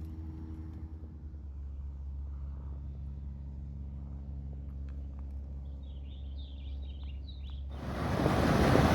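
Steady low hum of an idling vehicle engine, with a few short bird chirps late on. Near the end a loud rushing noise cuts in abruptly.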